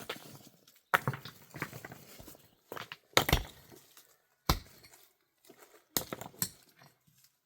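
Irregular knocks and thumps at uneven intervals, loudest about three seconds in, with another heavy thump a second or so later.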